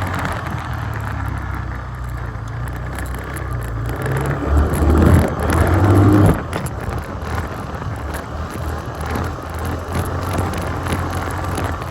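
Yamaha Grizzly 350 ATV's single-cylinder four-stroke engine running under way. Between about four and six seconds in it revs up, rising in pitch and getting louder, then drops back suddenly as the throttle is let off.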